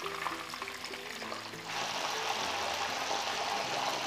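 Breaded chicken breasts frying in hot oil in a pan: a steady sizzle with fine crackling that grows louder about two seconds in. Soft background music with sustained low notes plays underneath.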